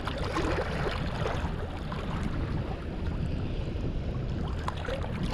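Wind rumbling on the microphone over steady open-shore ambience, with a few faint small clicks.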